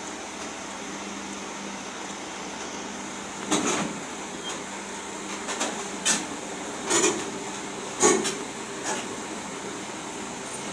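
An excavator's engine running with a steady hum, while several sharp metallic clanks and knocks come in irregularly through the second half, the loudest about eight seconds in.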